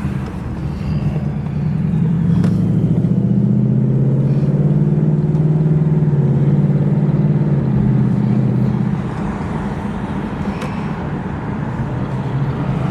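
Ford Mustang's engine running as the car drives, a steady low drone that grows louder about two seconds in and eases off about nine seconds in.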